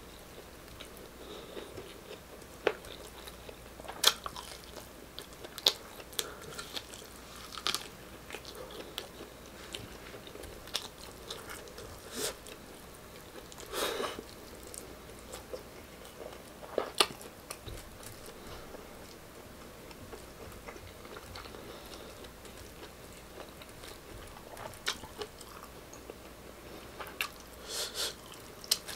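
Close-up eating sounds: a person chewing meat stew on the bone and rice, with wet smacks and many irregular sharp clicks as the food is bitten and handled with the fingers.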